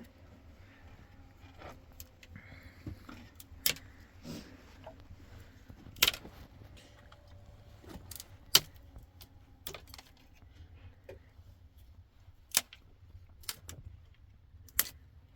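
A series of sharp clicks and knocks at irregular intervals, the loudest about six, eight and a half, twelve and a half and fifteen seconds in, over a faint low rumble.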